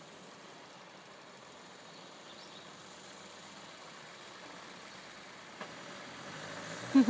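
Land Rover Defender 130's 300Tdi four-cylinder turbodiesel running faintly as the vehicle approaches, growing gradually louder. A brief louder sound comes right at the end.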